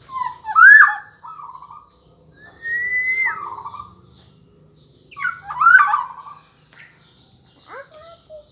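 Black-naped oriole (kepodang emas) singing loud fluting, whistled phrases with pauses between them. One phrase is a long, slightly rising whistle that breaks off and drops sharply.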